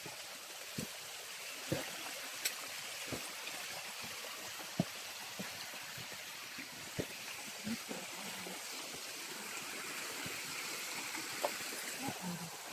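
Small forest stream running steadily, with a scattering of short, sharp knocks.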